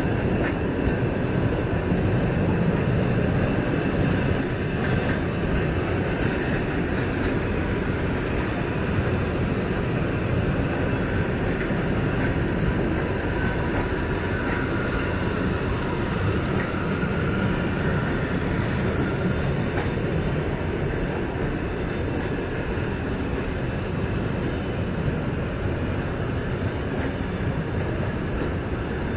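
Passenger coaches of a long train rolling past on the rails: a steady rumble of wheels on track that eases slightly toward the end.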